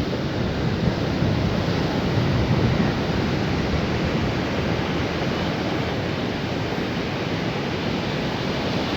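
Sea waves breaking and washing on a beach in a steady surf, with wind rumbling on the microphone.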